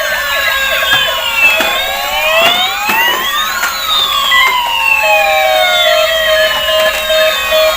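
Several battery-powered toy emergency vehicles, a police car and a fire truck among them, sounding their electronic sirens at once: overlapping wails that rise and fall in pitch. About five seconds in, a rapid, evenly pulsed beeping joins them.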